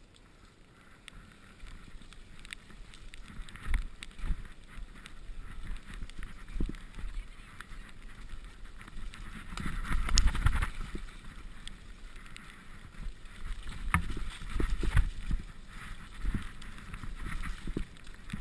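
Mountain bike riding down a wet, muddy trail: tyre noise and the bike rattling, with irregular knocks and thumps, loudest about ten seconds in and again near fourteen seconds, and wind on the microphone.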